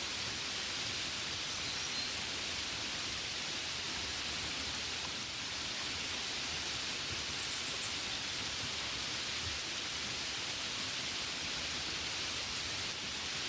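Steady gentle rain falling, an even hiss with faint scattered drops.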